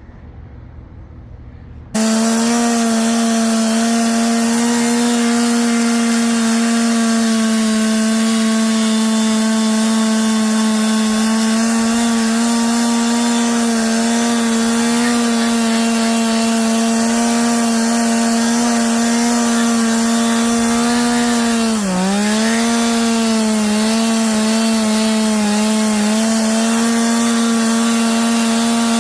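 Power carving tool running at a steady high pitch while cutting into Western red cedar. It starts abruptly about two seconds in and dips briefly in speed under load about three-quarters of the way through.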